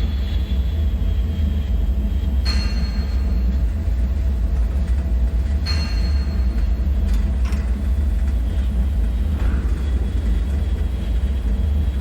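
Creepy bunker ambience: a steady, deep low rumble throughout, with a few short high-pitched pings ringing out about two and a half and six seconds in, and fainter ticks shortly after.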